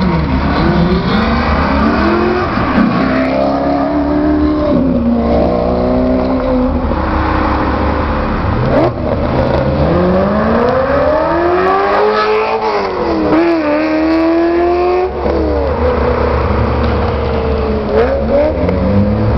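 Ferrari sports car engines revving in street traffic. The pitch rises and falls several times, with a long climb and drop in the middle and another climb near the end.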